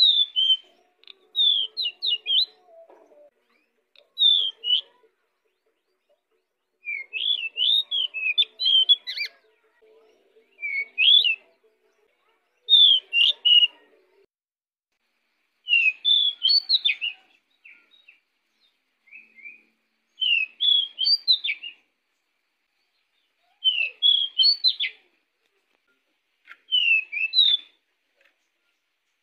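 Pied bushchat (decu) singing: short bursts of quick, chirpy whistled notes, a phrase every two to three seconds with short pauses between.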